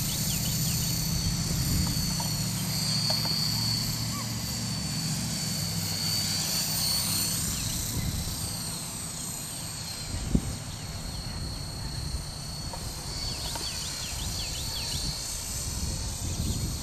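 Electric RC helicopter (Esky Honey Bee King 2 with a 3900kv brushless motor) flying: a high motor and gear whine over a low rotor buzz, the whine's pitch rising and falling as it manoeuvres. A single brief thump about ten seconds in.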